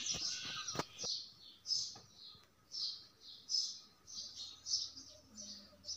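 A small bird chirping over and over, about two short high chirps a second.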